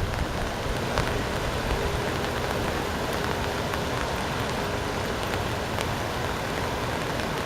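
Steady rushing hiss of water in a hurricane flood, even throughout, with a few faint ticks.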